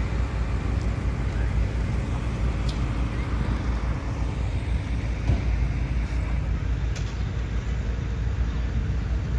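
Steady outdoor background noise with a low rumble and faint voices in it, without any fireworks bursts.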